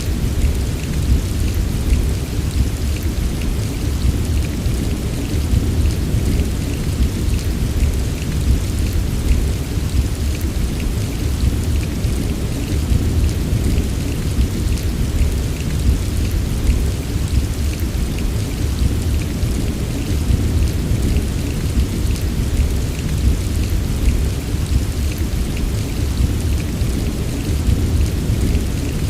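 Steady heavy rain, a dense patter of drops over a continuous deep low rumble, unchanging throughout.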